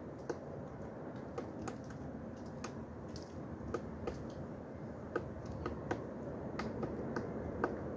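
Pileated woodpecker pecking at wood: single sharp knocks at irregular intervals, roughly two a second, over a steady low background noise.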